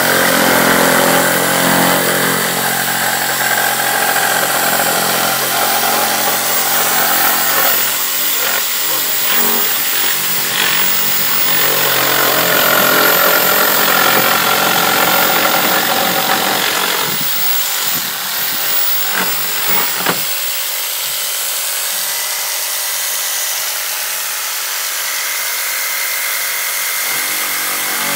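Electric reciprocating saw running steadily as it plunge-cuts into wood. About two-thirds of the way through, the lower hum drops out and a thinner, higher sound carries on.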